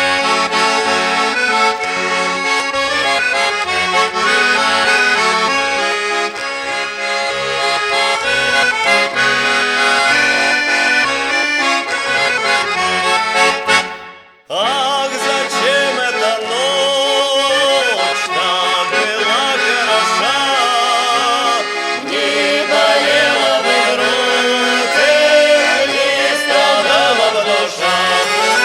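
Accordion-led Russian folk song used as the soundtrack. It cuts out for a moment about halfway through, then resumes with a wavering melody line.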